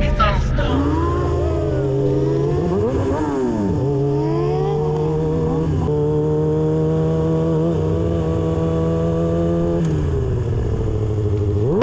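Sport motorcycle engine running under throttle: its pitch dips and climbs again about three seconds in, then holds steady for several seconds before dropping off near the end.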